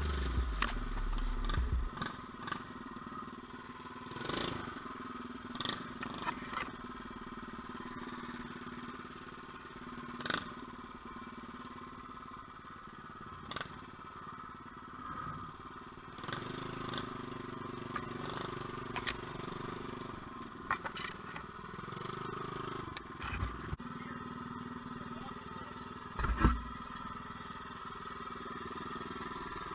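Mini bike engine running at a steady pace, with frequent clattering knocks and clicks from riding over rough trail. A louder thump comes near the end.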